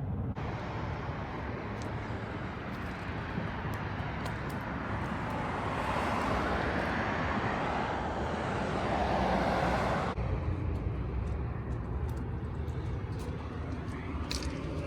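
Vehicle traffic noise: a steady rush with one vehicle passing that grows louder from about six seconds in, then an abrupt cut at about ten seconds to a lower rumble.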